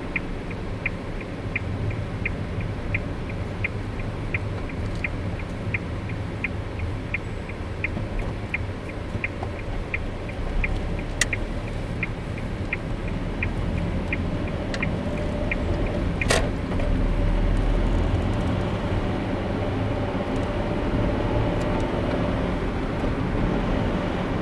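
Car driving on the road, with a steady rumble of tyres and engine. The turn-signal indicator ticks evenly, about one and a half to two times a second, and stops about two-thirds of the way through. A single sharp click follows, and the rumble then grows louder.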